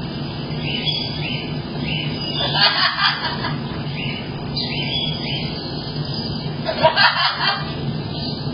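Cockatoo laughing in two short bursts, about two and a half seconds in and again about seven seconds in, over a background of repeated high chirps and a low hum.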